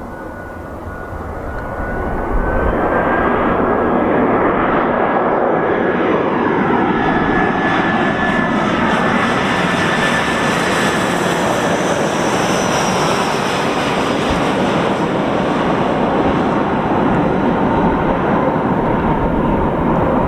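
Airbus A319 jet engines running loud as the airliner passes. The noise swells about two seconds in and then holds steady, with a thin high whine running through it.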